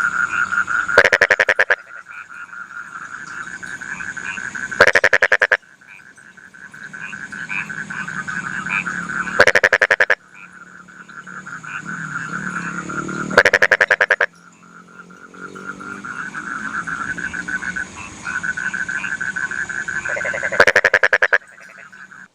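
Rice-field frogs calling in a chorus with a steady high trill. It is broken five times by a loud, fast-pulsed rattling croak bout lasting under a second. After each bout the chorus drops away and slowly builds back up.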